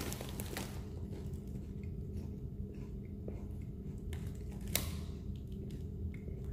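Faint chewing of a potato chip with the mouth closed, over a steady low room hum, with a single sharp click a little before the end.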